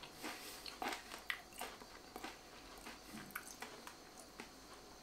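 Potato crisps being chewed with the mouth closed: irregular crisp crunches that thin out and grow fainter over the few seconds.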